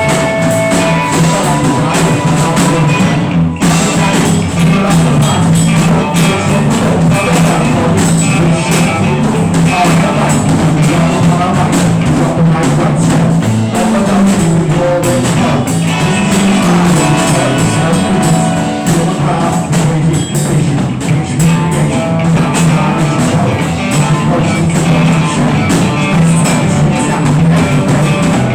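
Rock band playing a loud improvised jam, with one brief dip a few seconds in.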